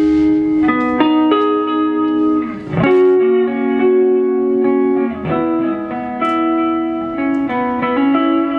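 Electric guitar played on its own: held, ringing notes and chords that change every second or so, with a quick slide in pitch between phrases about three and five seconds in.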